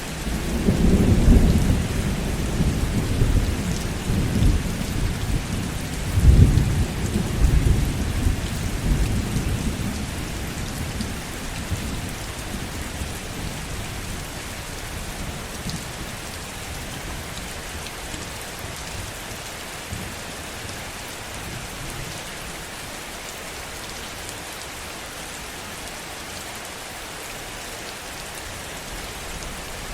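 Heavy rain falling steadily, with low rolling thunder rumbling through the first ten seconds, loudest about a second in and again around six seconds, then dying away to rain alone.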